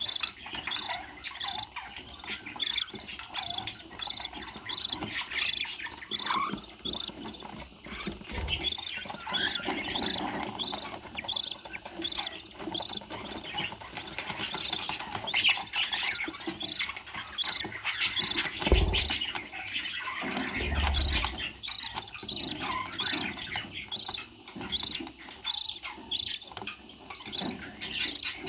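Parrot chirping and squawking in a steady run of quick, short calls, with a few dull low thumps along the way.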